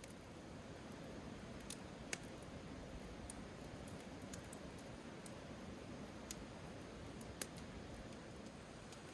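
Steady rush of a mountain stream, with four short sharp clicks, two about two seconds in and two near the end.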